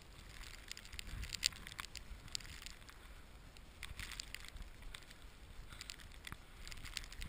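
Footsteps crunching through deep snow, heard as irregular crackles, over a steady rumble of wind on the microphone.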